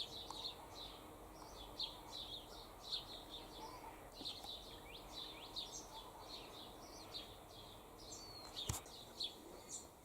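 Birds chirping: a steady stream of short, high chirps, several a second, over faint outdoor background noise. There is one sharp click near the end.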